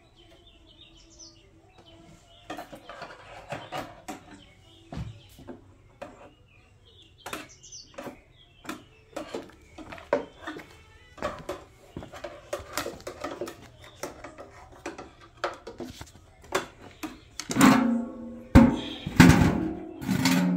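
Irregular sharp clanks and knocks, like hard parts being handled. Loud music with percussion comes in near the end.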